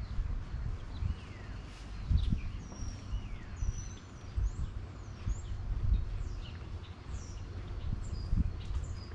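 Small birds chirping, with many short calls that glide up and down in pitch, over an irregular low rumble.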